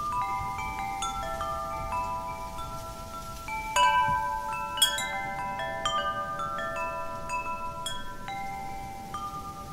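Wind chimes ringing as the wind knocks them, many overlapping sustained tones struck at irregular moments, with a louder cluster of strikes about four seconds in. A faint, even noise of real wind lies underneath.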